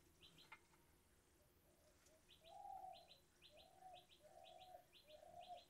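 Faint bird chirping: short double chirps repeating about twice a second, with a few low held cooing notes in the second half.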